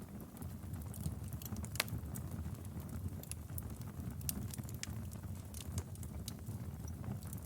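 Wood fire in a fireplace crackling: irregular sharp pops and snaps, the loudest about two seconds in, over a steady low rumble of the flames.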